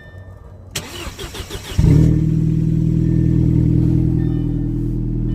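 Audi engine cranked by the starter for about a second, then catching and settling into a loud, steady idle. The exhaust is leaking, which the owner puts down to a clamp that looks to have come off.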